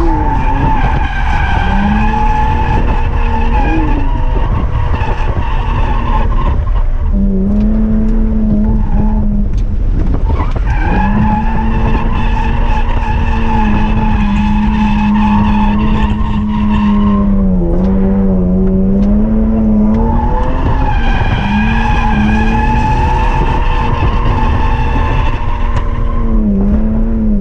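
BMW E46 M3's 3.2-litre S54 inline-six held at high revs through a drift, its pitch staying level for long stretches and dipping briefly several times as the throttle is lifted. The tyres squeal and skid underneath it.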